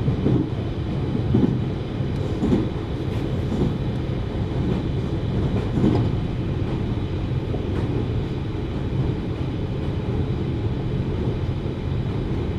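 Running noise of a JR Hokkaido 733 series electric train, heard from inside the car: a steady low rumble of wheels on rail, with a few soft knocks in the first six seconds.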